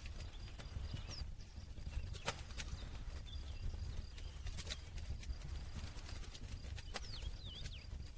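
Campfire crackling: irregular sharp pops and snaps of burning wood over a steady low rumble of flames. A few faint, short high whistles come about a second in and again near the end.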